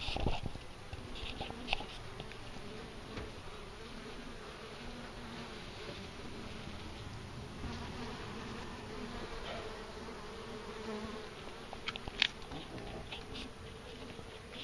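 Italian honey bees buzzing, a steady hum that wavers in pitch. A knock right at the start and a few sharp clicks, the loudest about twelve seconds in.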